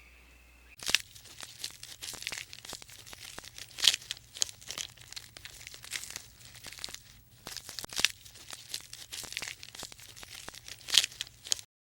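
Irregular crackling and rustling, a dense run of sharp clicks that starts about a second in and stops suddenly near the end.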